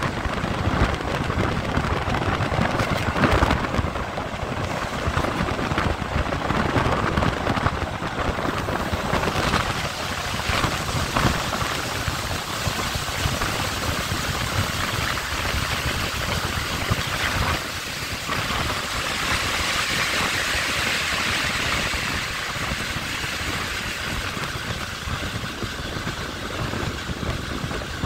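Passenger train running at speed, heard from an open carriage window: steady wind rush over the microphone mixed with the noise of the wheels on the track.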